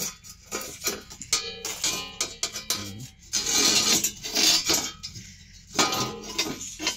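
Metal clinking and rattling, a long run of sharp clicks with two longer scraping rushes, as a metal line for the damper mechanism is fed down a chimney flue.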